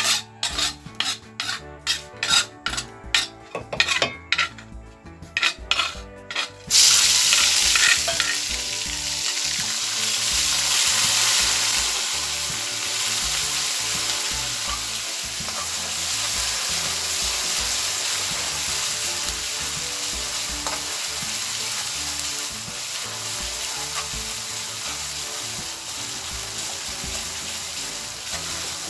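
Ground spice paste of shallot, garlic, ginger and galangal hitting hot oil in a wok: a burst of loud sizzling starts suddenly about seven seconds in, then settles into steady frying as the paste is stirred with a spatula. Before the paste goes in there are irregular sharp taps and clicks.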